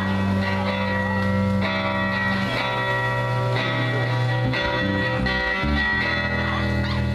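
A live rock band playing: electric guitar lines over long held bass notes.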